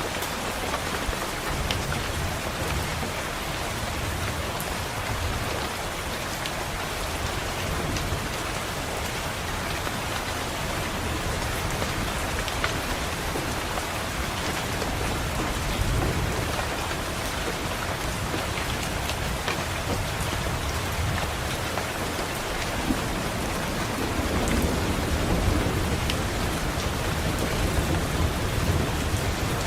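Steady rain pattering on a window, with low rolling thunder that swells several times, longest near the end.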